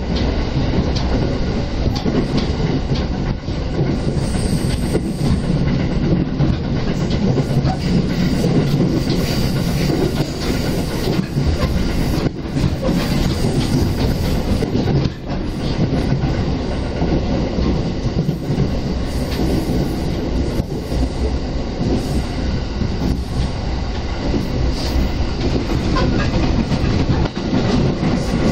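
Electric commuter train running at speed, heard from inside the carriage by the window: a steady, loud rumble of wheels on rail with scattered short clicks.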